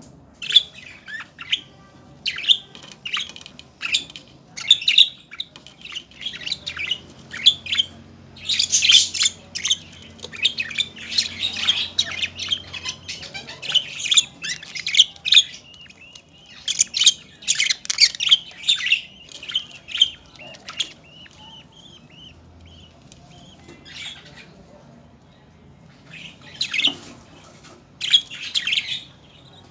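Budgerigars inside a nest box chirping and squawking in rapid strings of short, high calls. The calls thin out to a lull about two-thirds of the way through, then pick up again near the end.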